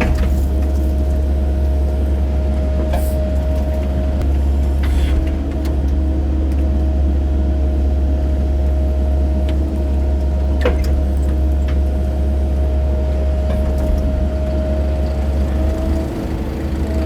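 Excavator's diesel engine running steadily, with a constant low hum and a steady higher-pitched tone over it, and a few light clicks and knocks.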